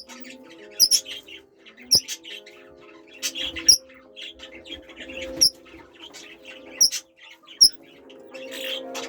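Red-rumped parrots giving short, sharp, high chirps about once a second, some in quick pairs, over background music.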